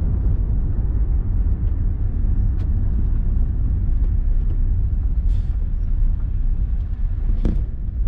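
A steady low rumble with a few faint, brief clicks.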